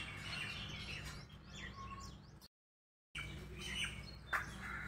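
Small birds chirping in short, high chirps over a low steady hum, with the sound dropping out completely for about half a second midway.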